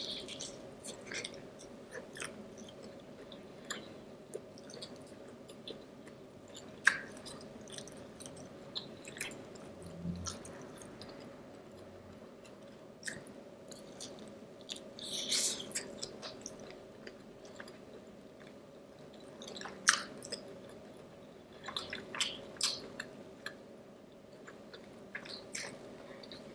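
A person chewing and eating pizza close to the microphone: soft wet mouth sounds and lip smacks, broken by a few sharper bites or clicks scattered through, over a faint steady hum.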